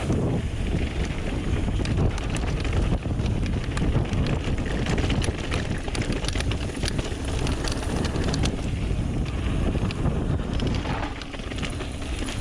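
Wind rushing over a GoPro Hero7's microphone as a Trek Remedy 8 mountain bike rolls fast down a dirt flow trail, with steady tyre rumble and scattered small rattles and clicks from the bike.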